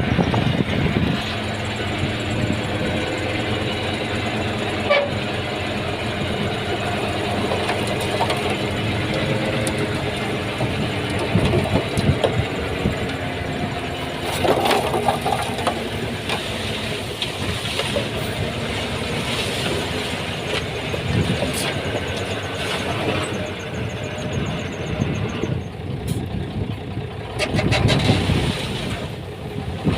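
Komatsu D31P bulldozer's diesel engine running steadily, with occasional metallic clanks.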